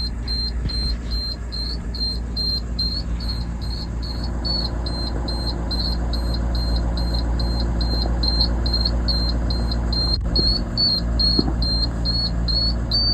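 17 ft flatbed truck's engine idling, with a rapid high-pitched chirp repeating about three times a second over it: a noise the owner has never heard from this truck.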